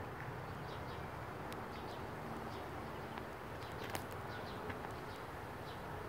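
Outdoor background of a steady low rumble, with faint short bird chirps scattered through it in small groups and a couple of light clicks.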